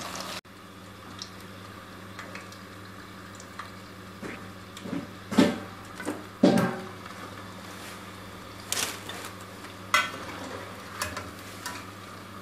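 Potato fries sizzling steadily in hot oil in an enamel pot. A metal slotted spatula scrapes and knocks against the pot several times as the fries are lifted out, loudest about five and six and a half seconds in.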